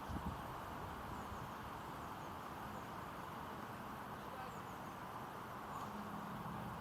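Steady wind noise, with low gusts buffeting the microphone at the start, and a few faint, short high bird chirps.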